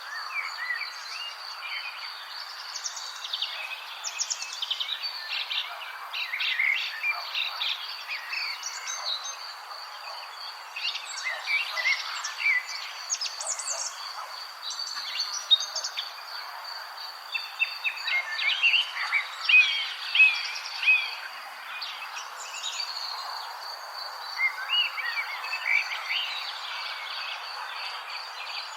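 Many songbirds chirping and trilling in quick, overlapping phrases over a steady high-pitched insect drone, with a soft hiss of outdoor ambience beneath.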